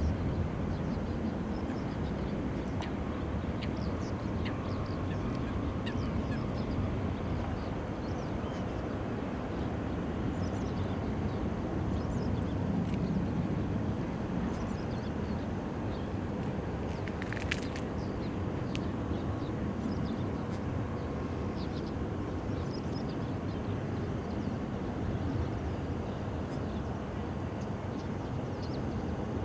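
Jet airliner engines running at a distance: a steady low rumble with a faint whine in it. Small bird chirps come through here and there, and there is one short sharp sound about halfway through.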